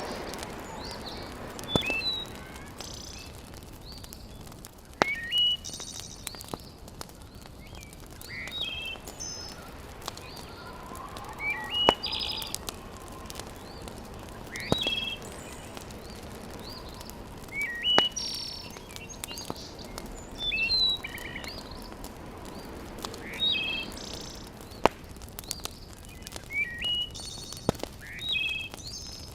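Birds chirping outdoors in short, repeated high phrases about every three seconds. Occasional sharp pops of a wood fire crackling come over a steady low hiss.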